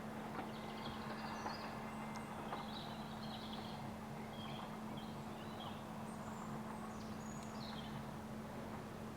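Quiet outdoor ambience: small birds chirping now and then over a steady low hum.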